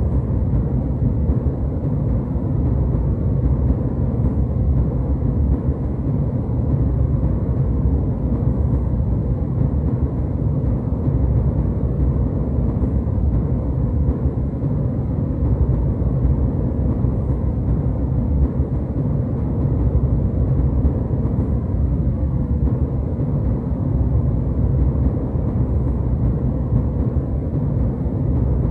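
Steady low rumble of a jetliner cabin in cruise flight: the even engine and air noise heard inside the passenger cabin, with no changes.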